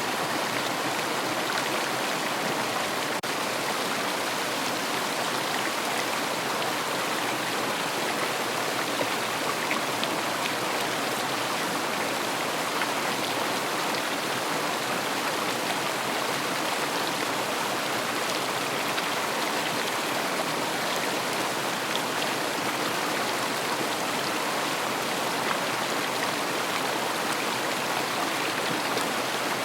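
River water flowing and splashing in a steady, even rush.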